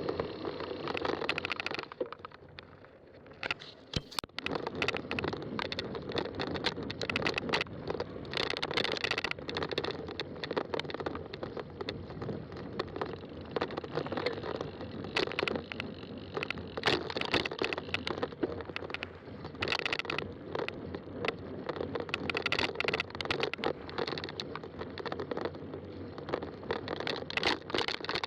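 Fat-tire bike being ridden along a trail: tyres rolling with a steady noise and frequent small rattles and knocks from the bike. It goes quieter for a couple of seconds near the start.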